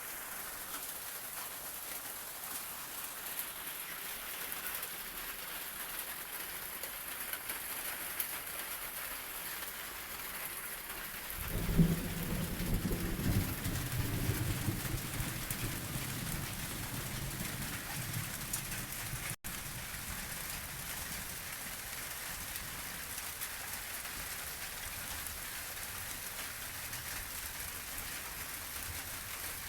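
Steady rain falling, with a low rumble of thunder that starts suddenly about a third of the way in and fades over several seconds.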